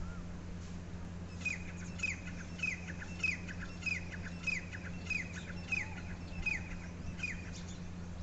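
A bird calling a short, downward-sliding note over and over, about two calls a second. The calls start about a second in and stop shortly before the end.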